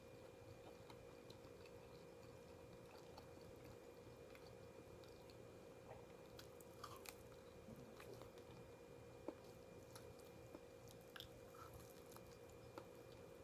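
Faint chewing, with scattered small clicks, over a steady hum.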